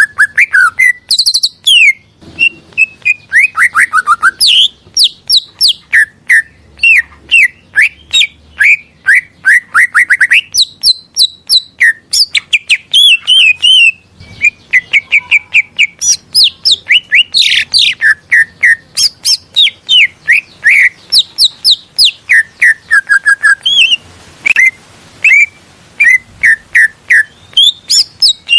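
Green leafbird (cucak ijo) singing continuously: a fast, varied stream of short chirps and whistled notes that sweep up and down, several a second, with only brief pauses.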